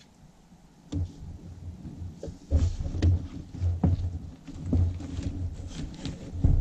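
Canoe being paddled: a single knock about a second in, then from midway a steady run of paddle strokes, with low knocks of the paddle against the hull and splashes.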